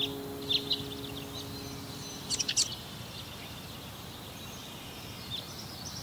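Short high bird chirps, a few at a time, over a faint steady hiss, with a cluster of quick chirps about two and a half seconds in. A held music chord fades out during the first two and a half seconds.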